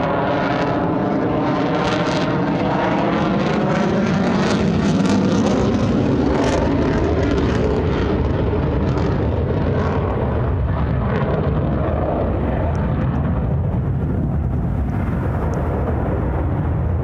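F-35 Lightning II's single afterburning turbofan jet engine, a loud continuous jet roar as the fighter flies by. Its hiss thins out over the last few seconds.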